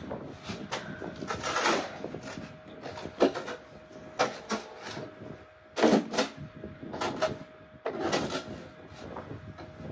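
Snow shovel scraping and digging into deep snow, in irregular strokes, several of them sharp and loud.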